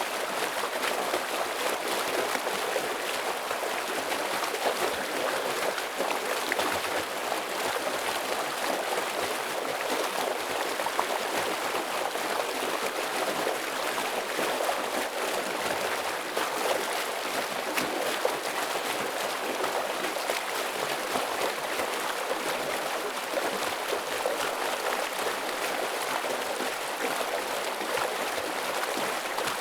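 Heavy stream water flowing steadily over rocks, a continuous rushing and splashing.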